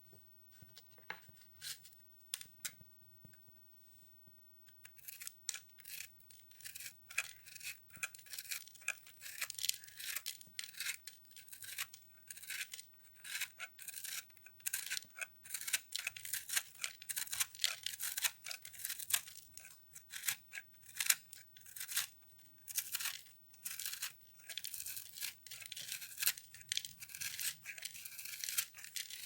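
Microwaved soap, puffed into a brittle foam, crackling and crunching as it is cut and crushed. A few scattered crackles at first, then dense, continuous crackling from about five seconds in.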